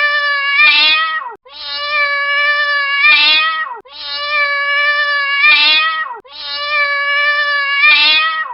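A cat's long, pained meow, as when its tail is stepped on, repeated the same way about every two and a half seconds. Each cry holds one steady high pitch, rises near its end, then drops off sharply.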